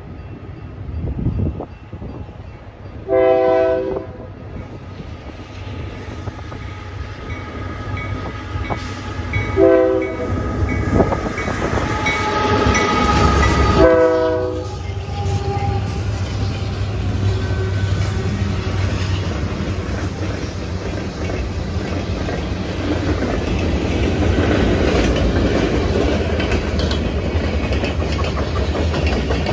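Union Pacific freight train with diesel locomotives sounding the horn in several blasts as it approaches, the last about 14 seconds in as the locomotives pass. Then the freight cars roll by with a steady, growing clatter of wheels on the rails.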